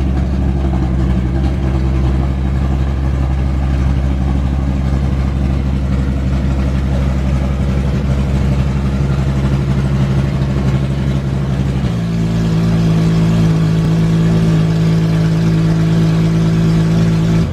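Ferrari 599XX's V12 idling steadily, its note stepping to a different, higher pitch about twelve seconds in and holding there.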